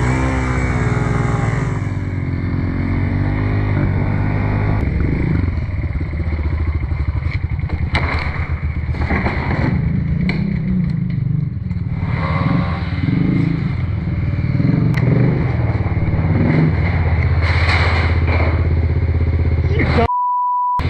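Small single-cylinder pit bike engines running and revving in the snow, with occasional clatter. Just before the end, everything drops out for about a second under a steady pure beep, a censor bleep.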